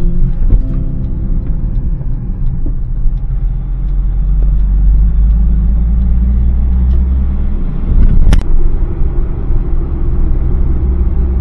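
Daihatsu Hijet kei van driving: a steady low engine and road rumble that grows louder about four seconds in, with one sharp knock about eight seconds in.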